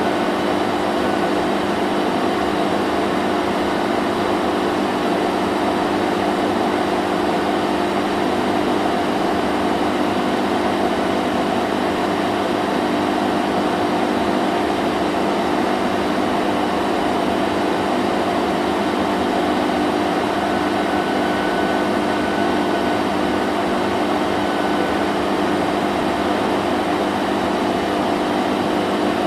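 Vacuum cleaner running steadily, a constant motor hum under an even rushing hiss of air.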